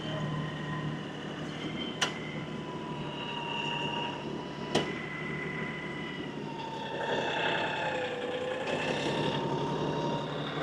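LS XR315 compact tractor's engine running under work, with a whine that shifts a little in pitch as it works. Two sharp knocks sound about three seconds apart.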